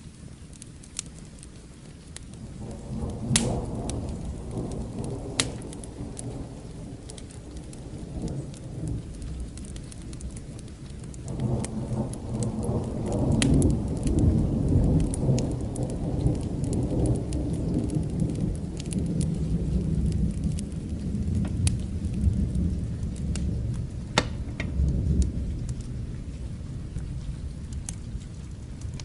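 Steady rain with distant thunder rolling twice: a first rumble about three seconds in, then a louder, longer roll from about eleven seconds that slowly dies away near the end. Scattered sharp crackles of a fire pop over it.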